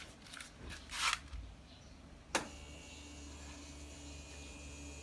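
Yamaha Majesty S scooter being readied to start: a few soft handling clicks, then a sharp click about two seconds in and a faint steady electric hum lasting about three seconds that cuts off near the end, typical of the ignition being switched on and the fuel pump priming.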